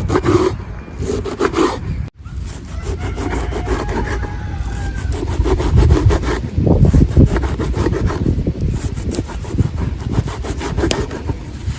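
Repeated rough scraping strokes on wood, with an abrupt break about two seconds in.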